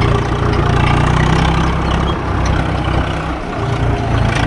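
Swaraj 744 FE tractor's three-cylinder diesel engine running steadily under load, straining to pull a trolley stuck in mud. The engine note dips briefly about two seconds in and again about three and a half seconds in.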